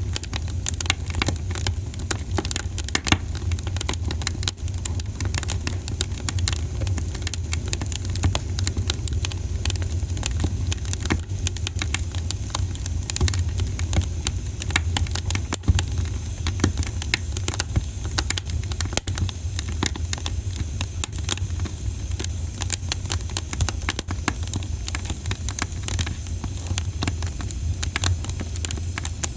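Campfire crackling: a dense, irregular run of small pops and snaps from the burning wood, over a steady low rumble.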